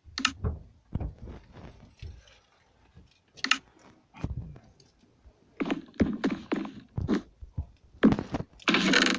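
Irregular knocks, thuds and scraping handling noise close to the microphone, ending in a longer, louder rustling burst.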